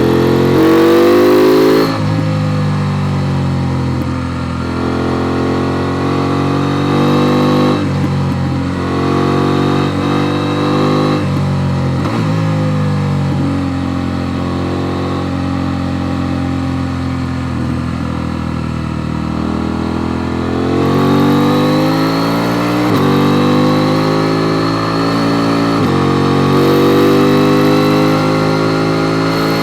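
KTM 890 Duke R's parallel-twin engine accelerating through the gears, the revs climbing and dropping back at each gear change, with a long stretch of falling revs on the overrun midway before it pulls hard again.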